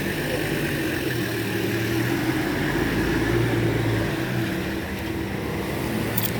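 A motor vehicle's engine running close by with the noise of traffic, steady and swelling a little in the middle; a short sharp tick near the end.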